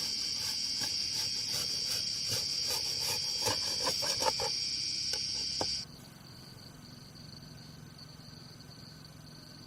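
Steady high-pitched insect chorus trilling, with scattered light clicks and rustles through the first half. The chorus drops suddenly to a much fainter level a little past halfway.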